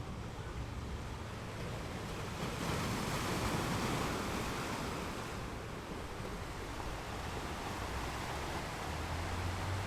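Surf washing onto a beach. A wave swells and breaks about three seconds in, then eases back, with a low rumble near the end.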